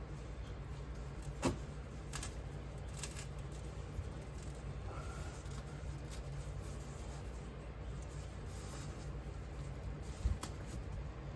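Occasional light scrapes and knocks of hand work, with two sharper clicks, one about a second and a half in and one near the end, over a steady low hum.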